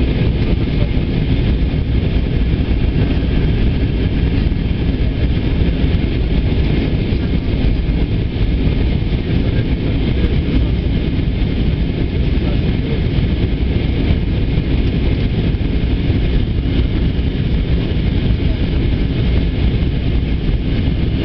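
Steady roar of an Airbus A320 airliner in flight, engine and airflow noise heard inside the passenger cabin, even and unbroken throughout.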